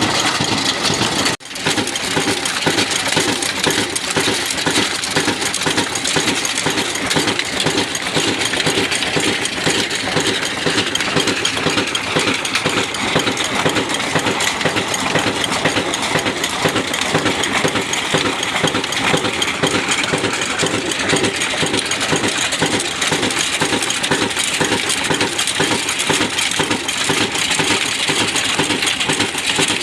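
Old stationary engine running and driving a chakki flour mill: a steady, fast mechanical clatter with metallic rattling and clinking. It breaks off for an instant about a second and a half in.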